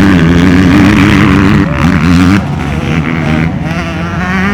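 Motocross motorcycle engines revving, the pitch rising and falling rapidly, loudest for the first couple of seconds and then dropping back somewhat.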